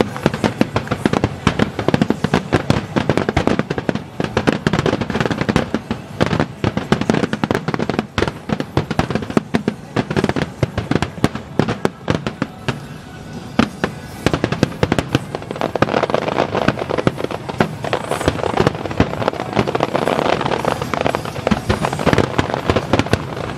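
Fireworks display barrage: aerial shells bursting in rapid, overlapping volleys with crackling stars. The bangs thin out briefly about halfway through, then build back into a dense crackling run.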